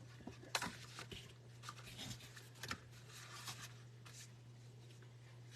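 Light rustling and clicking of paper and ribbon being handled on a craft sheet: a scatter of short, soft taps and rustles, over a steady low hum.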